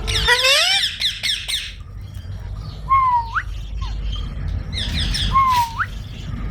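Green parrots calling: several squawk together for the first second and a half, then one parrot twice repeats a whistled call, a held note that sweeps sharply upward at the end, about two seconds apart.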